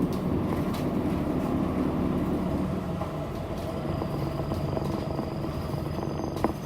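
Inside a city bus on the move: the engine's steady low drone with road noise, and one sharp click near the end.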